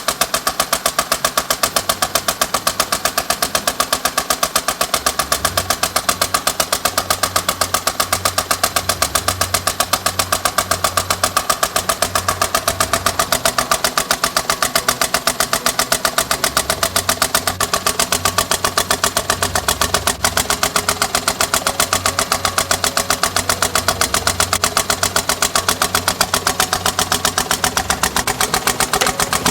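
Nissan Pino's small three-cylinder engine running with a loud, fast and even knocking from the front of the car. It is the abnormal noise that makes the owner fear the engine is broken.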